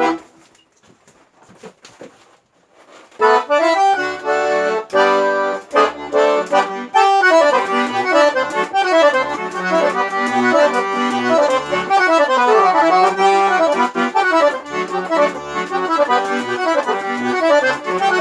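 Accordion (sanfona) playing a forró intro. A short chord opens, then comes a pause of about three seconds. About three seconds in, it starts chords with bass notes, and from about seven seconds a fast running melody plays over the bass-and-chord accompaniment.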